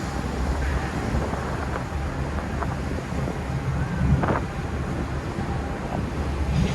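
Wind buffeting the microphone over a steady low rumble of marine engines, with a brief knock about four seconds in.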